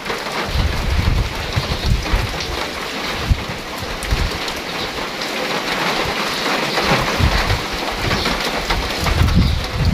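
Steady rain falling on wet gravel and shallow puddles, a dense even hiss of drops, with an irregular low rumble that comes and goes, strongest at the start and near the end.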